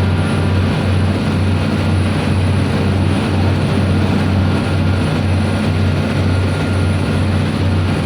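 Tugboat's diesel engines running steadily at full throttle, a loud, even low drone with a slight regular pulse.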